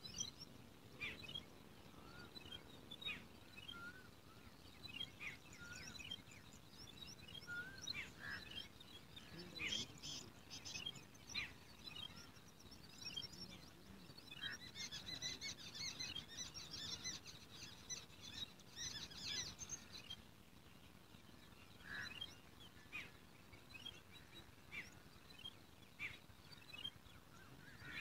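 Small birds chirping faintly: scattered short high chirps and a few brief whistles, with a dense run of rapid chirping in the middle, over faint low background noise.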